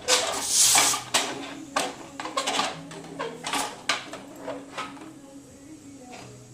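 A hiss about a second long, then a run of sharp metal clinks and knocks from steel cooking vessels and utensils being handled, likely the just-finished pressure cooker being dealt with. The clinks thin out after about five seconds.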